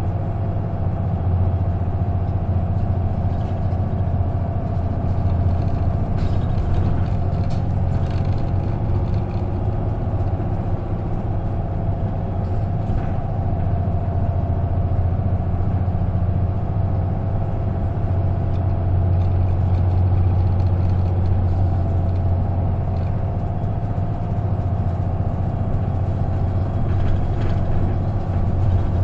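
Isuzu KK-LR233J1 non-step bus's diesel engine running steadily, a deep drone with mild rises and falls in level, with a few faint clicks and rattles.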